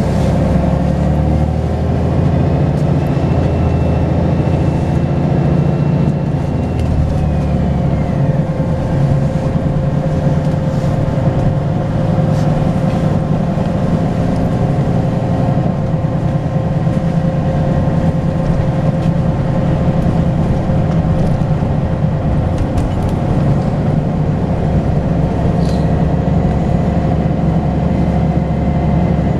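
Volvo B10BLE bus's turbocharged diesel engine running under way, with a high turbo whistle that rises, holds for a few seconds and falls away about eight seconds in, returning more faintly near the end.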